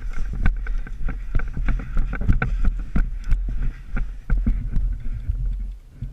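Irregular knocks and rustling, a few a second, over a low rumble of wind on the microphone.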